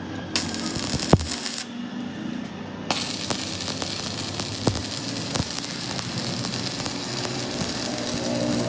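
Metalworking on a heavy gear: a steady crackling hiss, broken off once for about a second, with scattered sharp metallic clicks.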